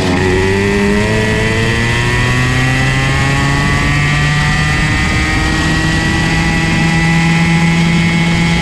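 Comer C50 two-stroke kart engine running hard, its pitch dipping just at the start and then climbing slowly and steadily as the revs build.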